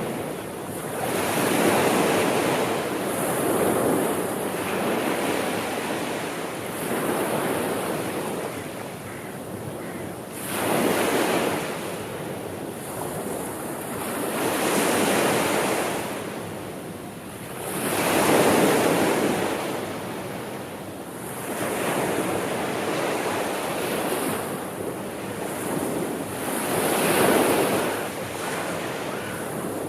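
Sea waves washing in and drawing back, a soft rushing that swells and fades about every three to four seconds.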